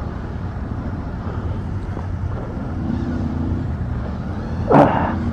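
Motorcycle engine running steadily as the group gets ready to move off, with its pitch rising a little about three seconds in. A short, loud noise comes near the end.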